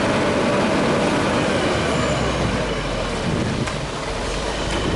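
Heavy construction machinery engine running steadily, a low rumble that grows a little stronger partway through, with a faint click or two near the end.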